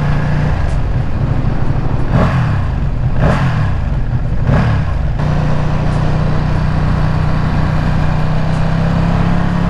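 Ducati Streetfighter V2's 955 cc V-twin engine running while riding, its note steady except for three brief whooshing sweeps a few seconds in, after which it settles back to a steady tone.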